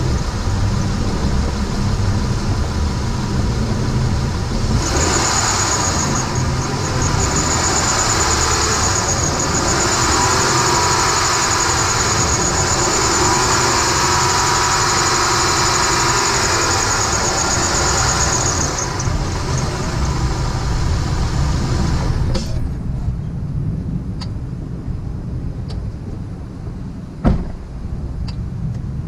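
Honda Pilot engine running with its accessory drive belt squealing, a steady high-pitched squeal starting about five seconds in and stopping after about fourteen seconds, then the engine runs on without it. The squeal is blamed on a worn belt tensioner or the lower pulley, with the belt wet from rain. A single sharp knock near the end.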